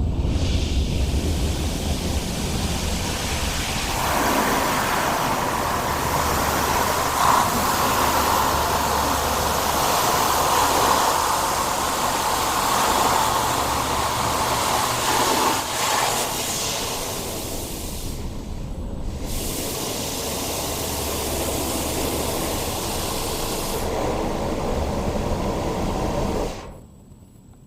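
Automatic car wash running: a steady rush of water spray and machinery with a low hum beneath, changing character about four seconds in and briefly losing its high hiss about two-thirds through. It stops abruptly near the end.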